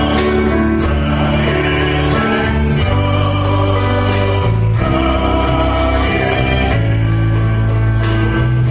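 Christian worship song sung by a group of singers over instrumental accompaniment with a steady beat.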